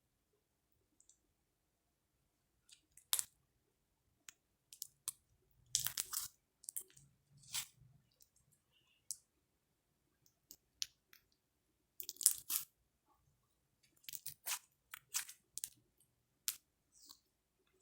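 Close-miked ASMR mouth sounds: irregular wet clicks, smacks and short crackly bursts with quiet gaps between them.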